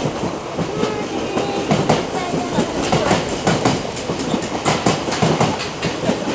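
An Odakyu commuter electric train running past, its wheels clicking over rail joints and points in a quick, uneven run of clacks.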